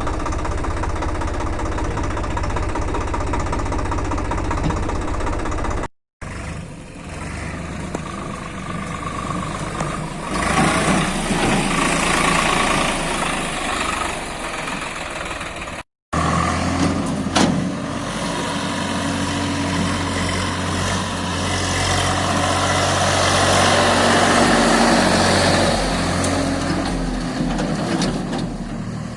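Swaraj 742 XT tractor's diesel engine running steadily, growing louder in two stretches as it works or revs up. It drops out twice, abruptly, and there is a single sharp click partway through.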